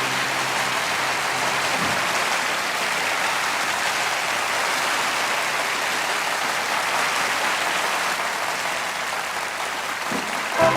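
Concert audience applauding steadily after a song. The band's final held chord rings under the clapping and fades out about two seconds in, and the next song starts up near the end.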